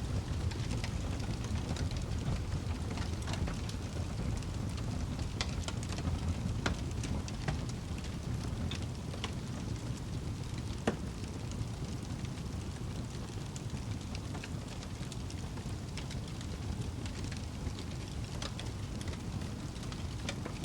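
Wood fire burning in a fireplace: a steady low rumble of the flames with scattered crackles and pops, one sharper pop about halfway through.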